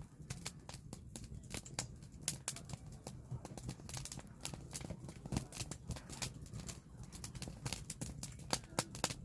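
Firewood burning, with irregular crackles and sharp pops several times a second over a low, steady rumble of the flames.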